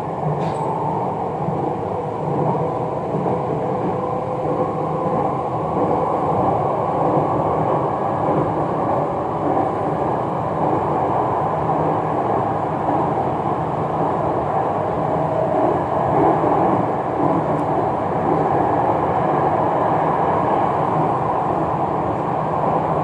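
Jakarta MRT train running between stations, heard from inside the carriage: a steady, even rumble of wheels and running gear.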